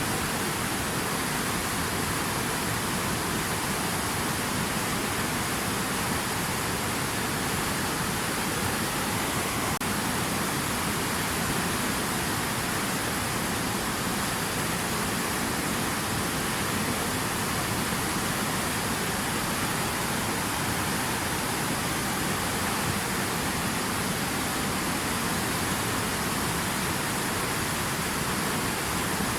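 Steady, unbroken rush of water with no distinct splashes or changes.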